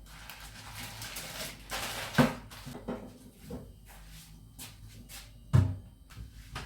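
Household handling sounds: rustling for the first couple of seconds, scattered light clicks, and two sharp knocks, about two seconds in and about five and a half seconds in, the second the loudest.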